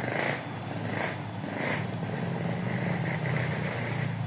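Steady low motor drone with some short higher sounds over it.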